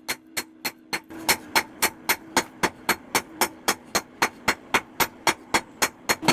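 Fast, evenly spaced hammer strikes on metal, about four a second, over a steady low hum, growing louder a little after a second in.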